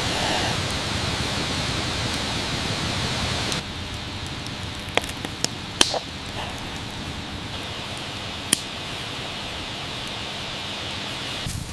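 Open wood fire burning: a steady hiss that drops suddenly after about three and a half seconds, with a few sharp crackles in the middle.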